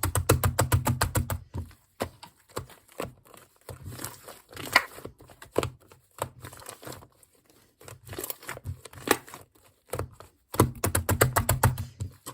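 Shaving-foam slime being pressed and squeezed by hand, giving rapid runs of small pops and clicks, with a heavy spell at the start and another near the end and softer squishes between.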